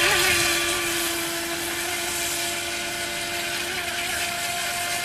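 The 370 electric motor of a mini RC racing boat running at steady speed, a high whine over a hiss. The pitch settles just after the start and then holds, with small brief dips.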